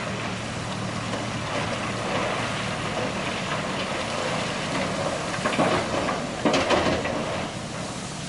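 JCB digger's diesel engine running steadily, with a few loud metallic clanks about five to seven seconds in.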